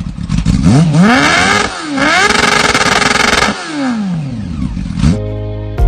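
Honda CB400 motorcycle with a loud aftermarket exhaust being revved: the engine pitch climbs and drops several times, holds high for about a second and a half in the middle, then falls away. Music comes in near the end.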